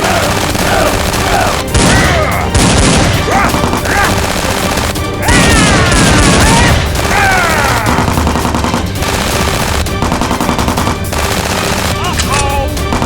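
Rapid bursts of gunfire sound effects over background action music, with the loudest volleys at about two seconds in and again from about five to seven seconds.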